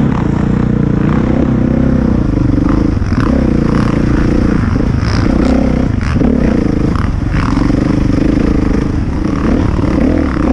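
A 450cc four-stroke single-cylinder dirt bike running as it is ridden, with the throttle varying. Short scrapes and clatters from the trail come through several times over the engine.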